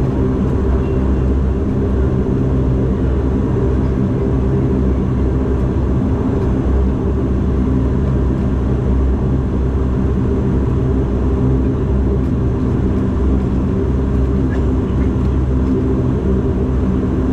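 Cabin drone of a Bombardier Dash 8 Q400's Pratt & Whitney PW150A turboprop engines and propellers, heard from inside the passenger cabin. It is a steady, even hum with a low multi-toned buzz that doesn't change.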